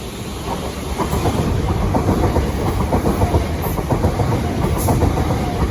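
Southern Class 377 Electrostar electric multiple unit rolling past, its wheels clattering over rail joints. It grows louder about a second in.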